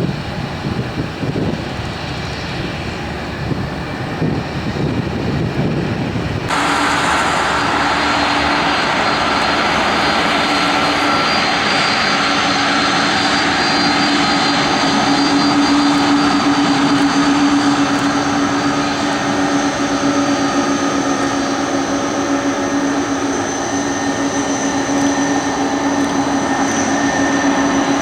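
Cargo aircraft engines running loudly, a steady rushing noise. About six seconds in the sound switches abruptly to a brighter, louder engine noise with a low drone and high whines held over it.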